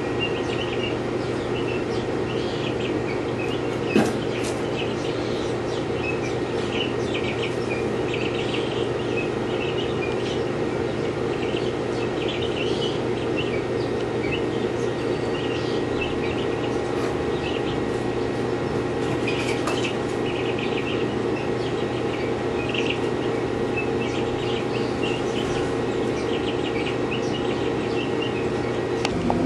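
Many small birds chirping continually over a steady low hum, with one sharp click about four seconds in.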